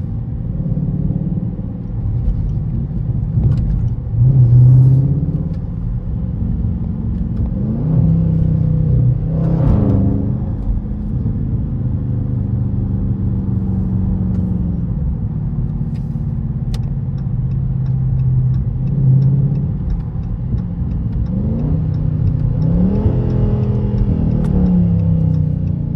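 Dodge Charger SRT 392's 6.4-litre HEMI V8 running while the car is driven, a steady drone whose pitch climbs and drops several times as it accelerates and eases off.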